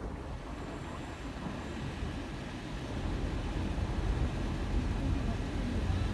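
Car driving, a steady low rumble of engine and road noise that grows somewhat louder about halfway through.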